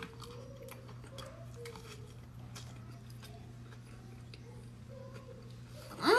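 A person chewing a mouthful of chicken-fajita taco in a soft flour tortilla, with faint wet mouth clicks over a low steady hum. A voice rises and falls in a short exclamation right at the end.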